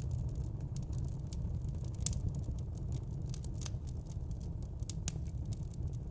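Wood fire burning in a fireplace: a steady low rumble of flames with frequent irregular sharp crackles and pops of the burning logs.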